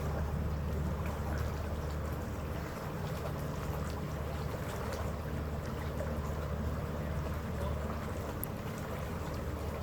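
A passenger ferry's engines droning steadily in a low hum, with water rushing along the hull.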